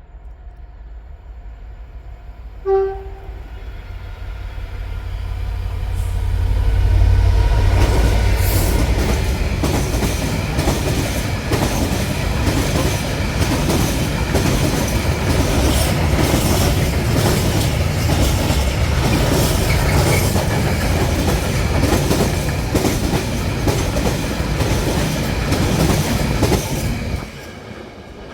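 Class 66 diesel locomotive passing through a station: a brief horn toot about three seconds in, then its two-stroke diesel engine rumble building to a peak around seven seconds. After that comes a long run of wheels clattering over rail joints as the train passes, cutting off suddenly near the end.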